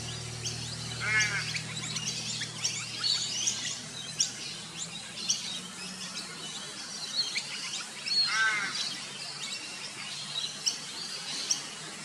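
Birds chirping and calling: many short high chirps throughout, and twice a brief harsh chattering call, about a second in and again just after eight seconds.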